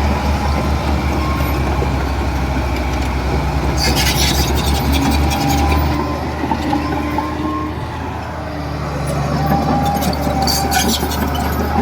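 Heavy diesel earthmoving machine engine running, easing off partway through and then building up again, with bursts of metallic rattling about four seconds in and again near the end.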